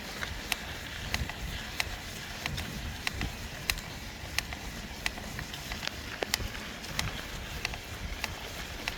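Trek Fuel EXe electric mountain bike making a sharp cracking creak that repeats about every two-thirds of a second, over a low rumble.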